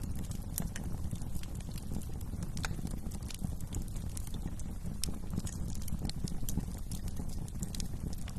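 Wood fire crackling: sharp, irregular pops and snaps over a steady low rumble of the burning fire.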